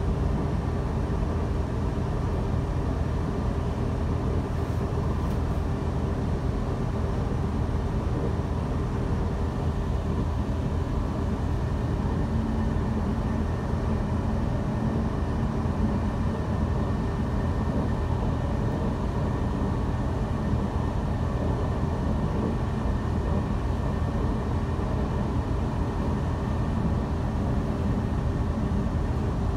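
Steady running noise of a Taiwan Railway electric passenger train heard from inside the carriage: a continuous low rumble of the wheels on the rails with a faint steady hum over it.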